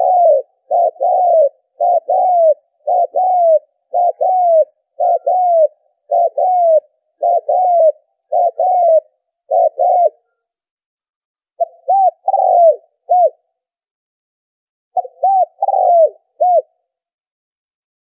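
Spotted dove cooing: a fast run of short, falling coo notes for about ten seconds, then two shorter groups of coos after pauses. It is the excited calling used as a lure to stir up decoy doves for trapping.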